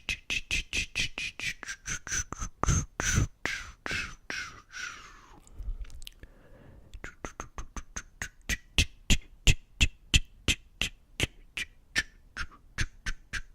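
Close-up mouth sounds: quick tongue clicks and pops, about four to five a second, with a short pause midway before they resume.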